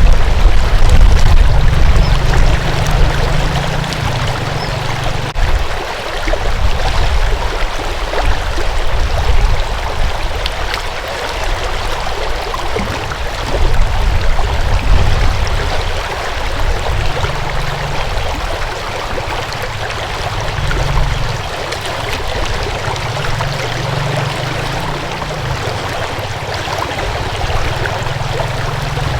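Water flowing steadily in a stream, a continuous rushing, with a deep low rumble underneath that rises and falls every few seconds.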